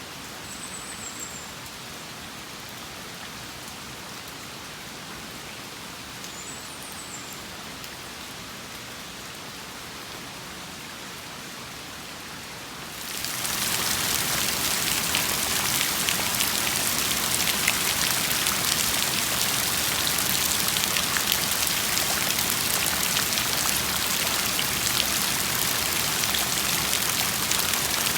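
Rain falling, an even hiss of drops that turns abruptly much louder about 13 seconds in, becoming a heavy downpour with dense drop patter. Two faint, short, high chirps come in the first seven seconds.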